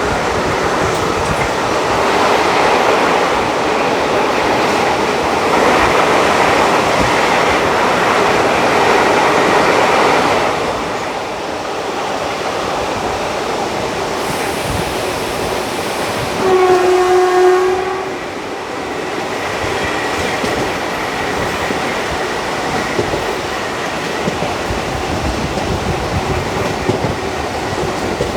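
Passenger train running at speed, heard from inside a coach: wheels clattering over the rail joints under a steady rumble, louder for the first ten seconds. About two-thirds of the way through, the WAG5 electric locomotive's horn sounds once for about a second.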